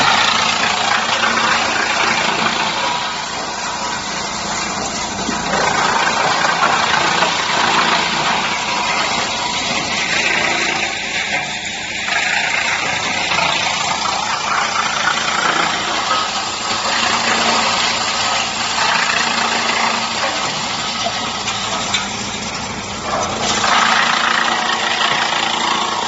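High-capacity drum wood chipper running under load as it chips wood waste: a steady machine hum beneath a dense grinding, rattling noise that swells and dips as material feeds through.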